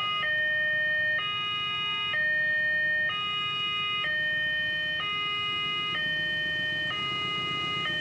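Railway level-crossing warning alarm sounding its electronic two-tone signal, alternating between a higher and a lower tone about once a second. A low rumble grows louder near the end.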